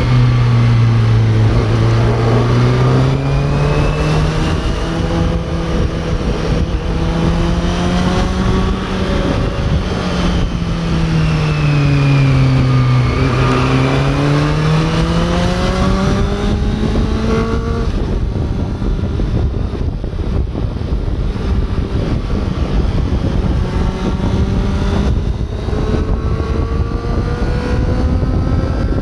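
Honda CB400 Super Four's inline-four engine running under way, its pitch rising and falling smoothly with the throttle and dipping lowest about two-thirds of the way through. Near the end the engine note fades back to a weaker hum for several seconds before climbing again.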